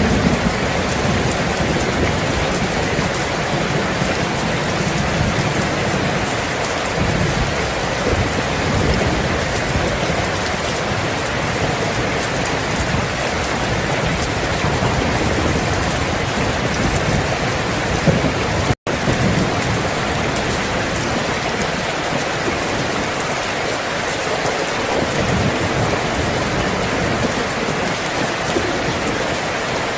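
Steady heavy rain falling, with low rolling rumbles of distant thunder underneath. The sound cuts out for an instant a little past halfway, then carries on.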